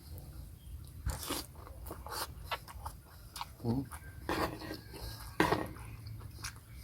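Close-up chewing of a mouthful of food: irregular crunchy bites and wet mouth noises, a few louder crunches about a second in and again near four and five seconds.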